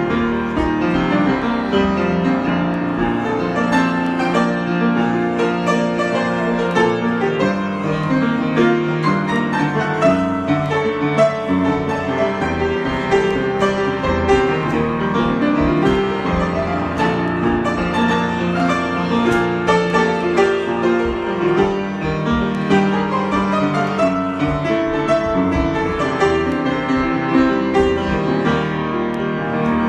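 Piano improvisation, played without a break: many overlapping sustained notes and chords that keep changing.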